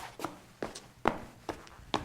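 Footsteps walking at a steady pace along a hallway, about two steps a second, each step a sharp tap with a short tail.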